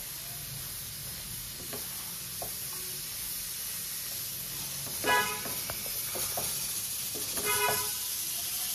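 Chicken pieces frying in a cast-iron kadai with a steady sizzle and hiss, with faint scrapes and taps of a wooden spatula as they are stirred together with ground coconut. Two short honks, like a vehicle horn, come about five and seven and a half seconds in.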